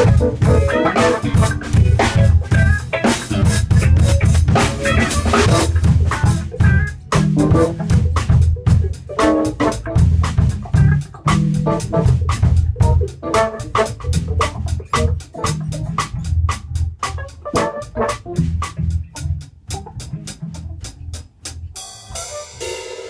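A band playing live in rehearsal, with a drum kit hitting busily over steady low notes; the playing breaks off about a second before the end.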